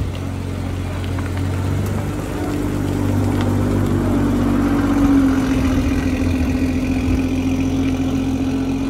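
Toyota GR Supra engine running at a steady idle, then rising a little in pitch and getting louder about halfway through as the car pulls away.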